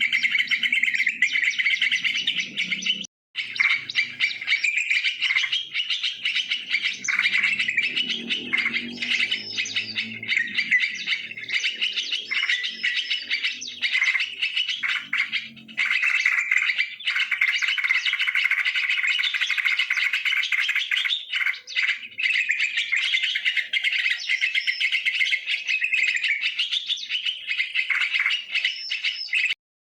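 Yellow-vented bulbuls (trucukan) calling without pause, a dense run of quick chirps and chattering phrases used as a lure call. The sound cuts out completely for a moment about three seconds in and again near the end.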